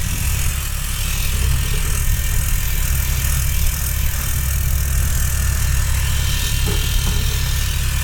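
A power saw with a worn blade cutting into metal, giving a steady, loud hiss, over the low, steady rumble of an excavator's engine running.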